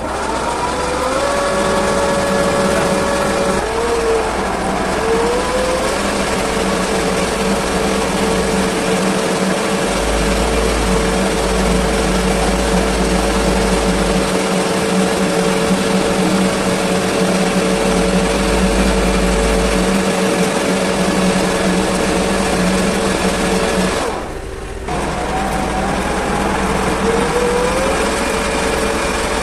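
Machine-shop machinery, such as a metal lathe, running steadily with a continuous hum and whine. The level drops briefly once, about three-quarters of the way through, then the machine runs on.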